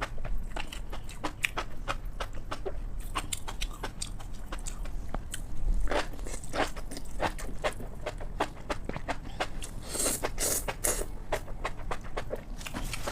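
Close-miked chewing and eating: a steady stream of short mouth clicks while food is bitten and chewed, busier about six seconds in and again around ten to eleven seconds.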